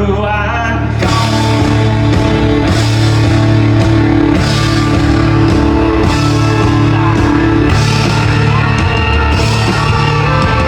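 Live rock band playing loud. A held note gives way about a second in to the full band, with repeated crashes through the rest of the passage.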